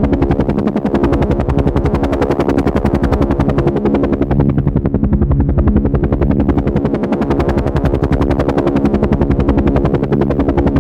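Helicopter in flight: steady, fast, even chop of the rotor blades over the constant drone of its engine.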